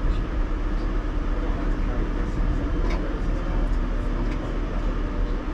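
1938 Tube Stock train running along the track, heard from inside: a steady low rumble with a few faint clicks.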